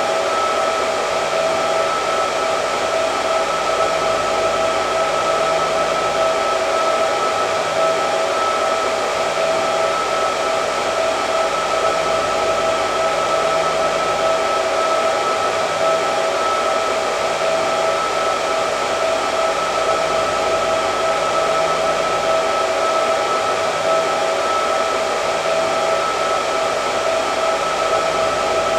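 Hair dryer running steadily: a constant rush of air with a steady motor whine, no change in speed.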